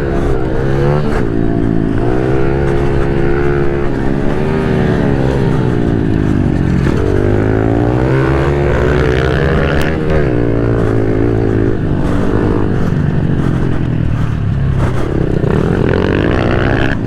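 Single-cylinder pit bike engine ridden hard around a race track, heard from on board. It revs up and drops back again and again through the gears and corners.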